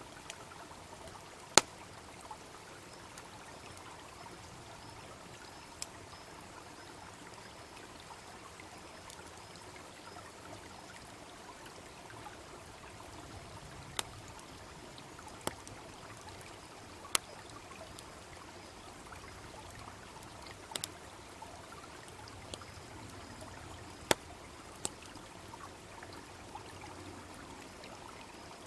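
A small brook babbling steadily, with a wood bonfire crackling over it: sharp single pops every few seconds, the loudest about a second and a half in.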